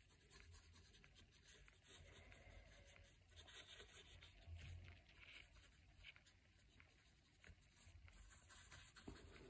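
Near silence, with the faint scratching of a paintbrush moving across watercolour paper.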